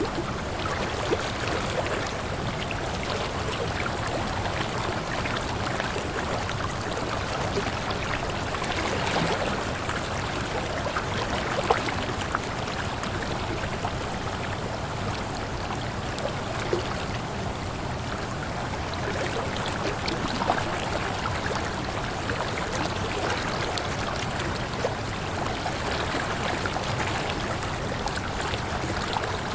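Waterfall: a steady rush of falling water, with small splashes and drips ticking through it here and there.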